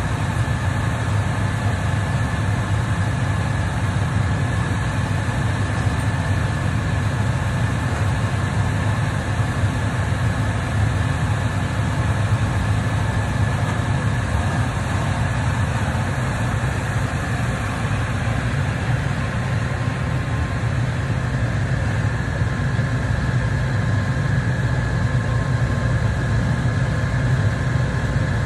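A motor or engine running steadily, a low drone with a faint constant high whine, unchanging throughout.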